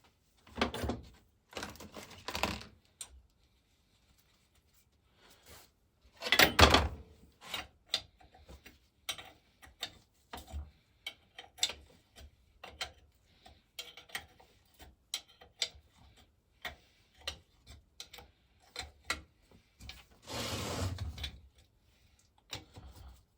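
Workshop handling sounds of the water pump being reassembled: irregular clicks and knocks of parts being set down and fitted, a heavier knock about six seconds in, and a rubbing scrape lasting about a second and a half near the end.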